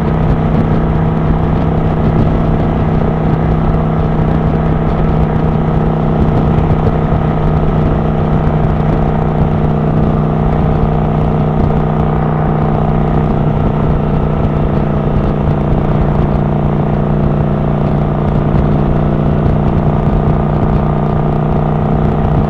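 Kawasaki Vulcan 900 Classic LT's V-twin engine running steadily at cruising speed, heard from on the bike with wind rushing over the microphone.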